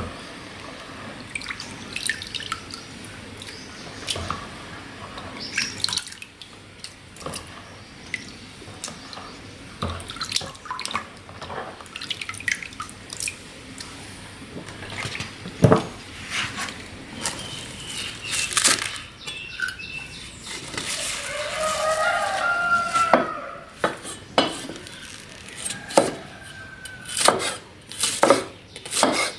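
Water sloshing and dripping, with scattered sharp clicks and knocks that grow more frequent near the end.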